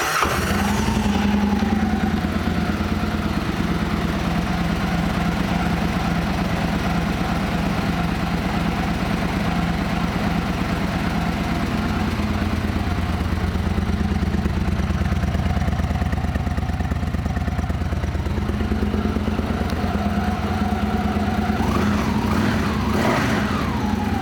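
2012 Victory Hammer S's big air-cooled V-twin idling steadily, having just caught after being started.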